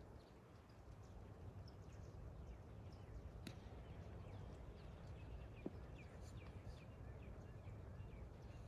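Faint birds chirping, many short high calls one after another, over a low steady rumble, with a single sharp click about three and a half seconds in.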